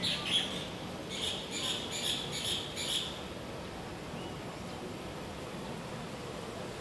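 A bird chirping, a quick series of short high calls that stops about three seconds in, followed by a steady faint background hiss.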